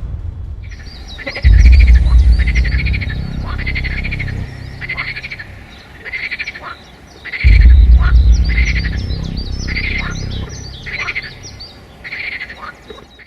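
Animal calls repeating roughly every second, with higher sharp chirps between them, over two deep low swells that come in suddenly, one about a second and a half in and one about seven and a half seconds in.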